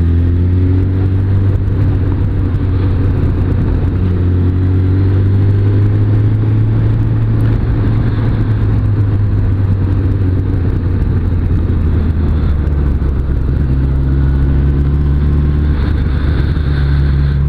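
Suzuki Bandit 600S's inline-four engine pulling the bike along the road, heard from the rider's position under a heavy low wind rumble. The engine note climbs as it accelerates near the start and again in the last few seconds.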